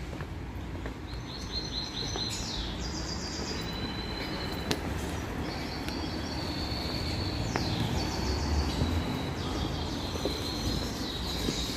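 Small birds chirping in quick repeated series, with short downward-sliding calls, over a steady low rumble of outdoor background noise.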